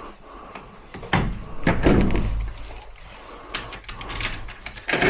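A door being shut and handled: a few knocks and thuds, the sharpest near the end.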